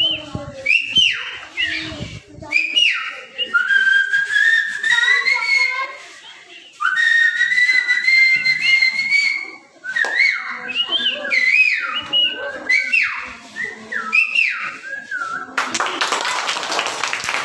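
A person whistling an imitation of cuckoo calls: short calls that drop sharply in pitch, two long whistled notes that rise slowly in the middle, then more short falling calls. Near the end the whistling stops and clapping begins.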